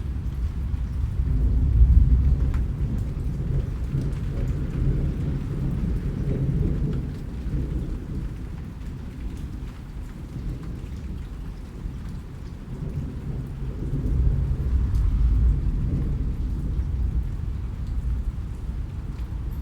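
Rain falling, with scattered drop ticks over a low rumble of thunder that swells about two seconds in and again around fifteen seconds in.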